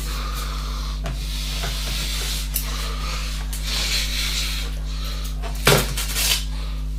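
Rubbing and rustling of objects being handled, with a few small knocks and a louder clatter a little before six seconds in, over a steady low electrical hum.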